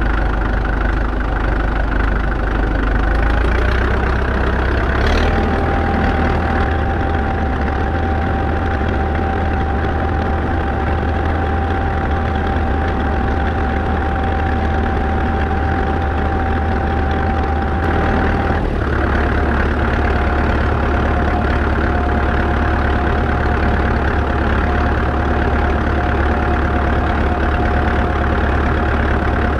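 1947 McCormick ODS-6 orchard tractor's four-cylinder diesel engine running steadily. A steady high whine rides over it and drops slightly in pitch about two-thirds of the way through, as the engine note shifts.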